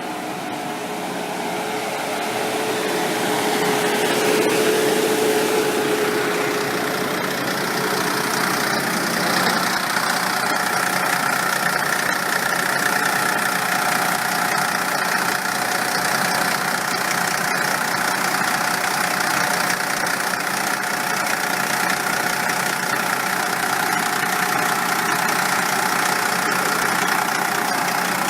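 2003 MAN 17.223 bus's diesel engine idling steadily. It grows louder over the first few seconds, then holds even.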